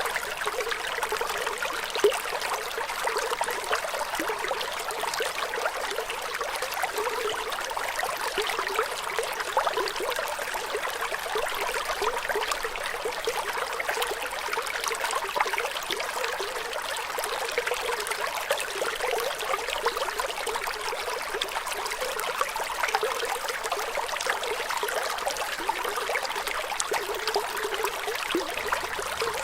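Flowing water trickling and bubbling steadily, a dense patter of small splashes with little low rumble. One sharper click stands out about two seconds in.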